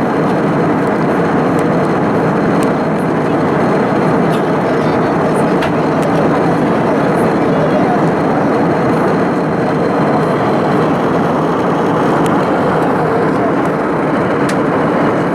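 Steady cabin noise inside an Airbus A320: the even rush of jet engines and airflow, holding level with no change in pitch or loudness.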